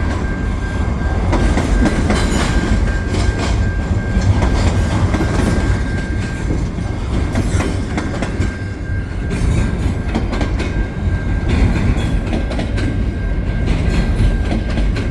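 Freight train cars rolling past, wheels rumbling and clicking over the rail joints, with a thin steady whine above.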